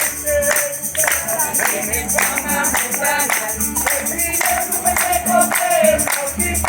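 A group singing a hymn, with tambourines shaken to a steady beat.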